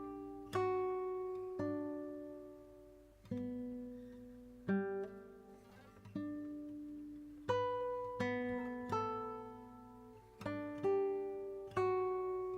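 Background music: slow, gentle plucked guitar, single notes struck about once a second and left to ring out.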